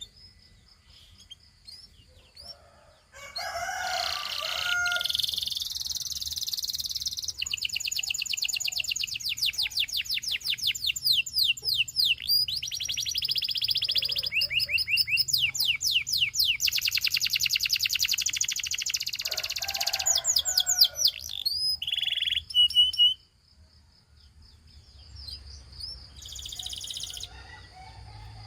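Gloster canary singing: a long song of fast rolling trills and rapidly repeated notes, many sweeping downward. It opens with a soft high trill and breaks off briefly near the end before starting again more softly.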